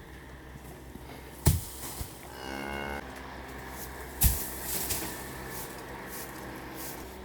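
A cow gives a short moo about two and a half seconds in. Two sharp loud thumps, about a second before the call and a second and a half after it, are the loudest sounds.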